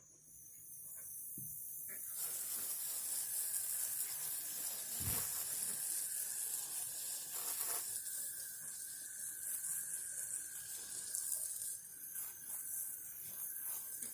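A steady hissing spray that builds up in the first second or so. A faint thin tone runs along with it, and there is a single soft thump about five seconds in.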